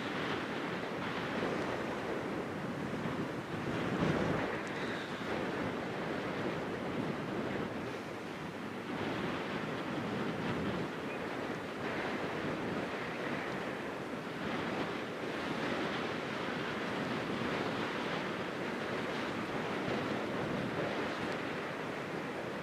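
Small waves washing on the shore in uneven surges, a little louder about four seconds in, with wind buffeting the microphone.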